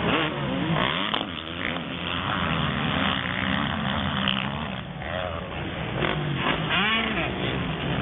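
Several motocross bikes' engines revving hard and changing pitch as they race round the track, their whines overlapping and rising and falling as they pass.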